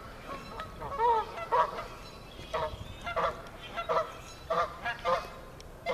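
Waterfowl honking: a string of short, pitched honking calls, several in a row, spaced roughly half a second to a second apart.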